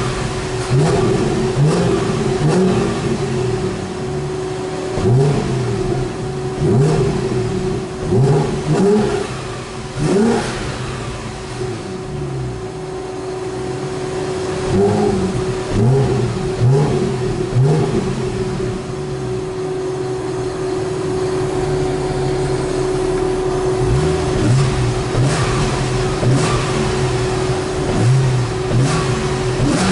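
Stock Porsche Cayman R's 3.4-litre flat-six and exhaust revving in repeated short blips that rise and fall in pitch, settling back to a steady run between them.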